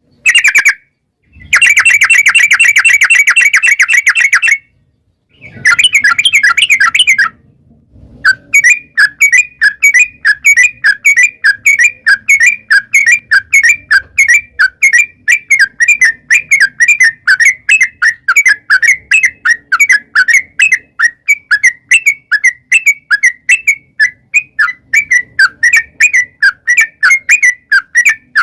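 Yellow-vented bulbul (trucukan) song: two fast rattling trills, then about 8 seconds in a long steady run of loud chirped notes, about three a second.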